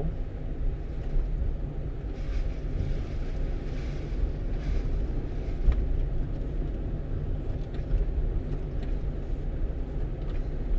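Steady low rumble of a 1-ton truck's engine and tyres heard from inside the cab while driving on a country road, with a single light knock about halfway through.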